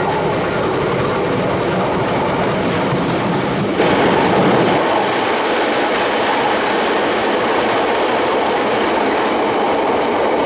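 Passenger train running along the track: a steady rumble of wheels on rails, which gets abruptly louder and brighter about four seconds in.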